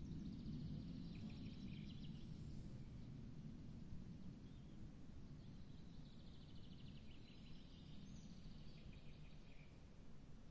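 A songbird singing two trilled phrases, one at the start and another about five seconds in, each dropping slightly in pitch. Underneath runs a faint, low, steady rumble.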